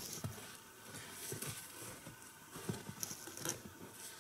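Faint, irregular knocks and rustling as wooden chocks are set under a log and the wood is shifted into place.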